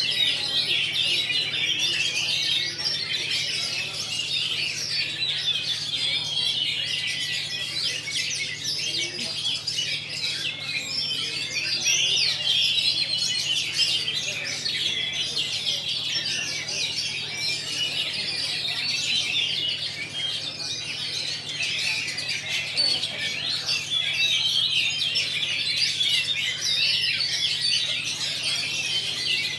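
Caged songbirds, oriental magpie-robins (kacer) among them, singing at once in a dense, unbroken chorus of rapid chirps and whistles, over a steady low hum.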